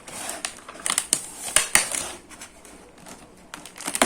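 Plastic packaging and bubble wrap being handled and unwrapped, an irregular crinkling with several sharp clicks and snaps.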